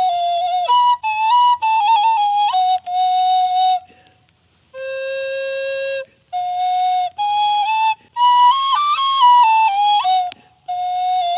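Solo recorder playing a slow Largo melody: held notes with quick ornamental turns, a breath pause about four seconds in, a long low note after it, and more ornamented phrases ending on a held note. The breath is shaking, as the player herself says of this practice.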